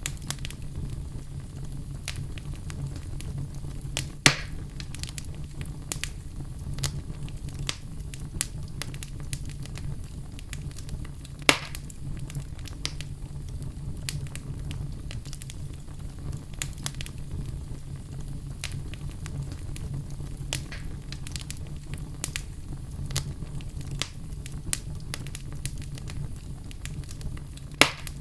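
Fire burning in a fireplace: a steady low rumble under constant crackling, with three louder pops about four seconds in, about eleven seconds in, and near the end.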